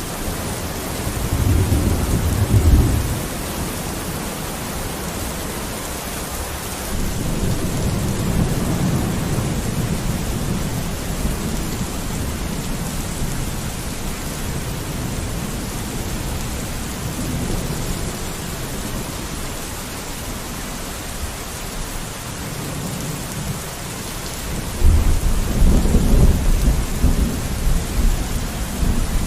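Steady rain falling on a window, with three low rolls of thunder, the loudest near the end.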